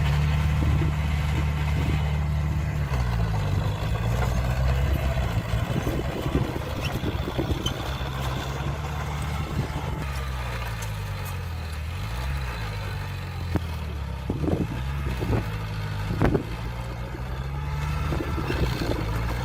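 Heavy construction-machine diesel engine running, its pitch dropping and rising as it is throttled down and up, with a few short knocks near the three-quarter mark.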